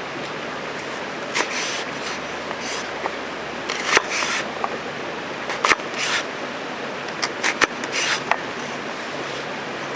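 A run of short scrapes and clicks, the sound of things being handled, over a steady background hiss.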